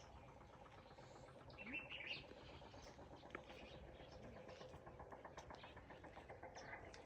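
Faint birds chirping in quiet open-air ambience, with a few short high calls about two seconds in and a faint fast pulsing sound in the second half.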